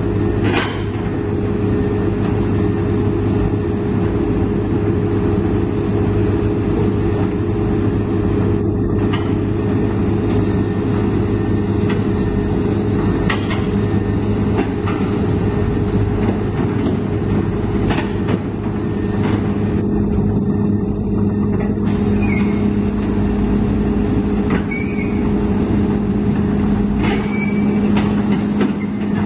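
Large diesel engine running steadily and loudly, with a few short knocks and clanks now and then.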